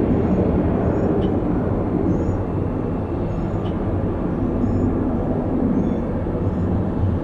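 Steady low rumble of jet airliner engines at an airport.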